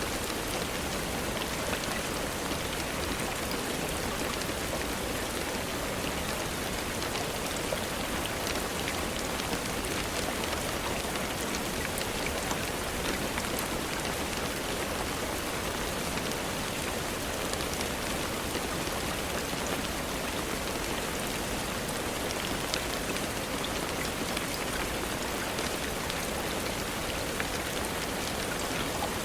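Steady rainfall, an even hiss with many small scattered drop ticks and no change in level.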